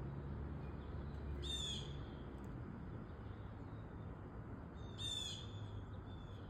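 Blue jay calling: two short, harsh calls about three and a half seconds apart, over a steady low background rumble.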